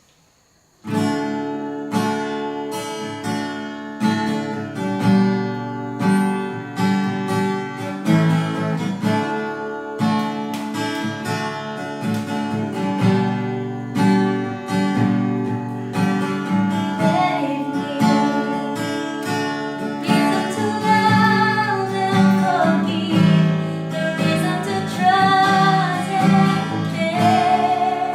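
Acoustic guitar strumming a song, starting just under a second in, with a voice singing the melody over it from about halfway through.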